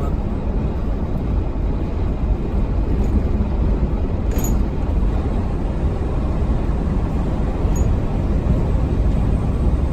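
Steady low rumble of a semi-truck's engine and road noise while driving at highway speed, with one brief tick about four seconds in.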